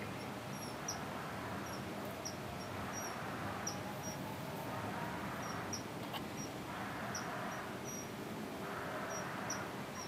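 High, thin bird chirps, short and repeated irregularly a few times a second, over a steady background hiss.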